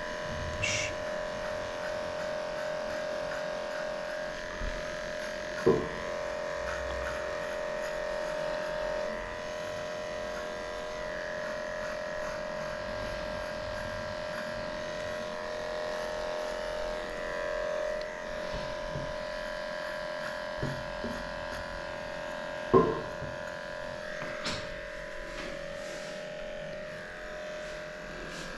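Electric dog grooming clippers running with a steady whine while shaving matted coat off a small dog. Two sharp knocks stand out, one about six seconds in and another about twenty-three seconds in.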